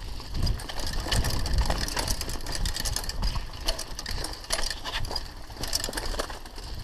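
Mountain bike rolling over a rough dirt trail: tyres crunching on grit and stones, with irregular clicks and rattles from the bike and a low rumble of wind on the microphone.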